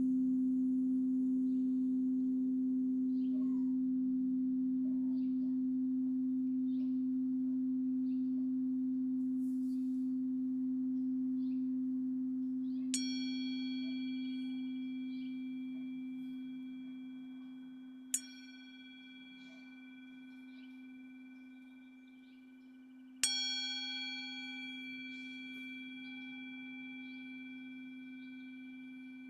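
A singing bowl's low hum rings on and slowly fades. Three strikes of a higher-pitched bell follow, about five seconds apart, each ringing on for several seconds.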